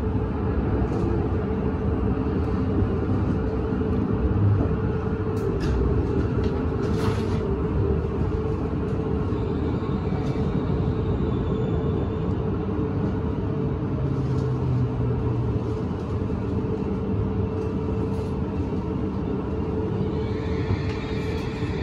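Steady running noise of a Tohoku Shinkansen train at speed, heard from inside the passenger cabin: an even rumble and hiss with a constant hum.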